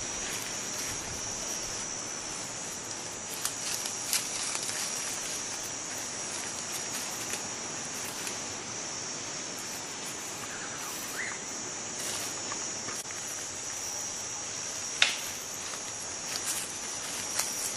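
A steady, high-pitched drone of insects calling in the forest, with a few scattered clicks and one sharp snap about fifteen seconds in.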